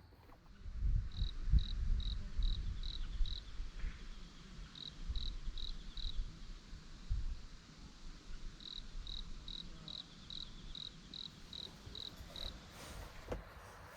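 A cricket chirping steadily in short, evenly spaced pulses, about two or three a second, in three runs with brief pauses between them. Underneath is a low rumble that is loudest for a couple of seconds near the start.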